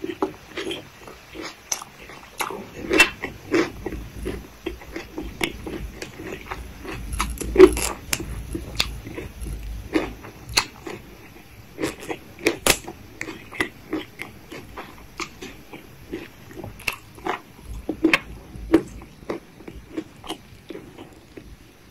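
Close-miked chewing of a mouthful of food: irregular crunches and wet mouth clicks, loudest in the first half and thinning out toward the end.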